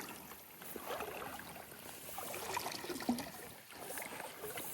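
Footsteps wading through a shallow creek in plastic overboot waders, water splashing and sloshing around the legs with each step.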